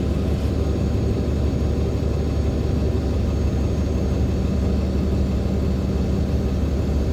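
Cabin noise aboard a 2014 NOVA LFSA hybrid articulated bus under way: a steady low drone from its Cummins ISL9 diesel and drivetrain with road rumble. A faint hum joins in about two and a half seconds in and drops out near six seconds.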